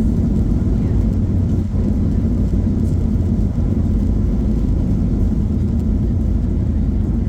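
Steady, loud low rumble of a Ryanair jet airliner, with no change in pitch.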